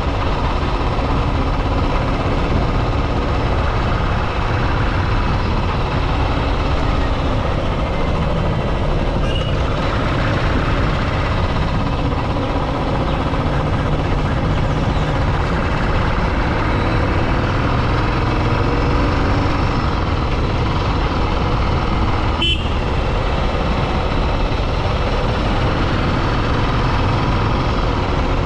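Motorcycle on the move: steady engine and wind noise, with two short sharp sounds about nine and twenty-two seconds in.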